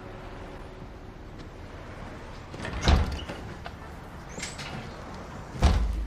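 A door opening and closing: two heavy thuds about three seconds apart, with a lighter knock between them.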